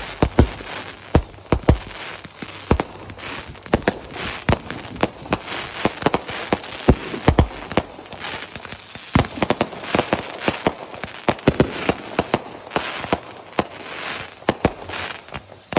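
Fireworks display: a rapid, irregular string of bangs from shells and cakes going off, mixed with repeated high whistles that fall in pitch.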